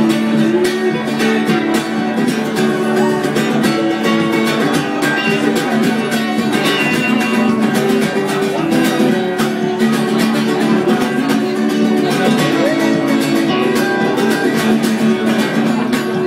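Live music: an instrumental break of a pop-folk song, led by strummed guitar, with no singing.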